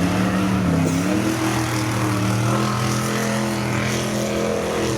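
Off-road vehicle engine running hard, its pitch dipping briefly about a second in and then holding steady.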